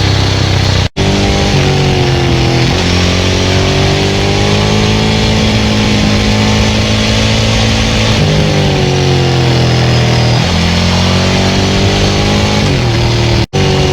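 Ducati 900SL's air-cooled V-twin running through a Termignoni full exhaust under way. Its pitch holds, then rises and falls with the throttle. The sound cuts out for an instant about a second in and again near the end.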